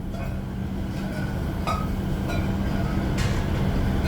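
Workshop machinery running with a steady low hum, with a few short metallic clinks at irregular moments.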